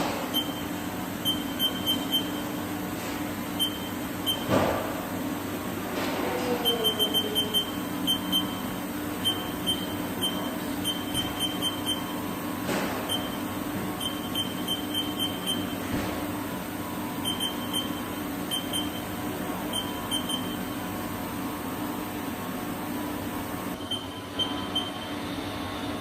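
Steady electrical hum of a powered-up 2008 Haas TL-3B CNC lathe, with runs of short, high beeps like control-panel keypresses and a few single knocks.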